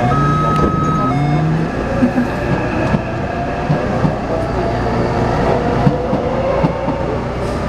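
Taipei Metro C301 train with retrofitted propulsion running, heard from inside the car: a steady low rumble with scattered small knocks. Two steady tones from the propulsion inverter sound for about the first second, then a fainter whine slowly rises in pitch. The uploader calls this inverter noise abnormal.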